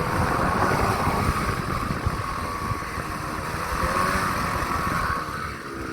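Engine of a Citystar 2-tonne light truck running, with a steady whine and a strange noise that the owner cannot place. It eases off a little near the end.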